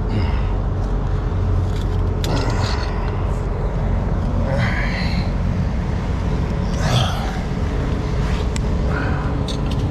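Steady low idling-engine rumble, with short scuffs and rustles about two and a half, five and seven seconds in as someone crawls under a truck between its wheels.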